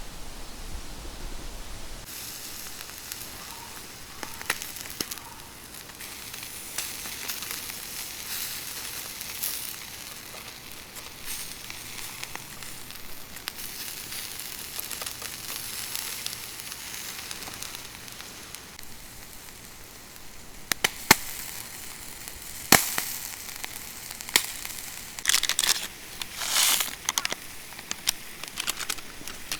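Food sizzling over a wood campfire, with the fire crackling; a few louder sharp pops come in the second half.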